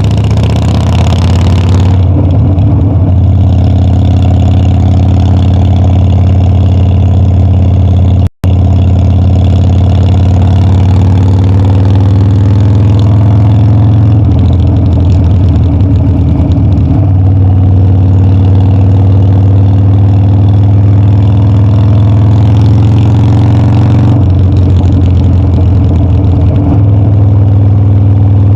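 Harley-Davidson Dyna's V-twin engine and exhaust running while riding. Its pitch rises and falls with throttle and gear changes. The sound cuts out for a split second about a third of the way in.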